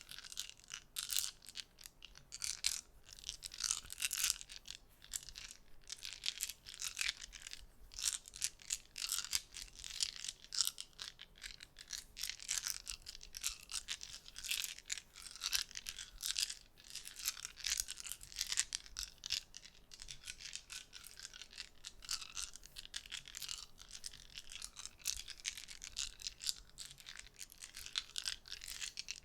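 Dense, irregular soft clicking and crackling, close to the microphone, from a small object being handled continuously as an ASMR trigger.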